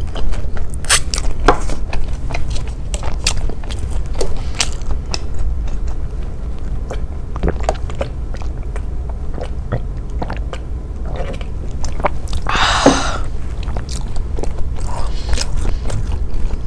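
Close-miked chewing of crunchy avocado toast: crisp bites and mouth clicks come thick in the first few seconds, then thin out. About twelve and a half seconds in there is a short breathy sound, and a steady low hum runs underneath.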